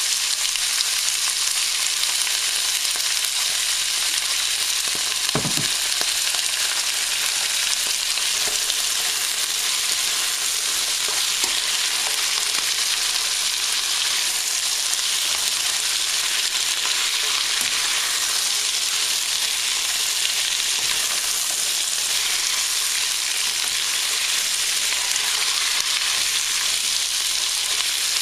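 Green beans sizzling steadily in hot oil and rice cooking wine in a nonstick frying pan, stirred and tossed with a plastic spatula. A single knock comes about five seconds in.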